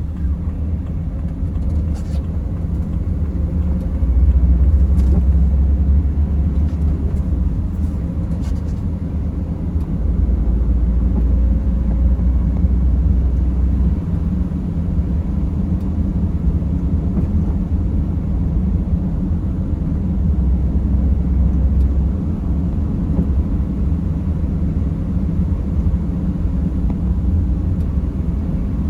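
Low, steady rumble of a vehicle driving, heard from inside the cabin: engine and tyre road noise that swells and eases every few seconds, with a few faint clicks in the first nine seconds.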